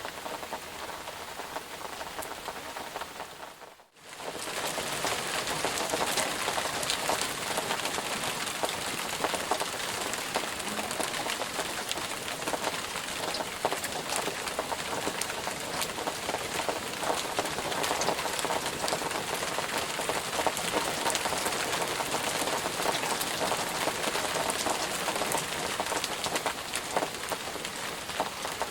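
Steady rain with a dense patter of drops. About four seconds in it fades almost to silence for a moment, then comes back a little louder.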